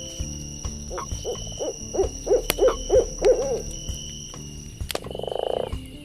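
An owl hooting a quick run of about nine short hoots, with sharp pops of a crackling campfire. A short low buzzing call comes near the end.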